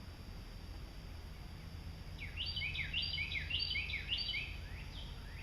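A bird singing a short chirping phrase four times in quick succession, starting about two seconds in, over a steady low outdoor rumble.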